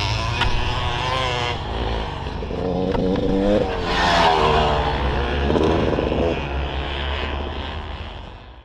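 Dirt bike engine running, revved up and down several times, with a steady low drone underneath; it fades out near the end.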